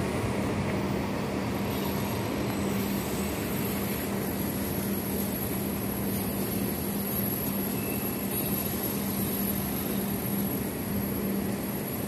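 Electric locomotive-hauled train running away along the track, heard as a steady rumble with a constant low hum.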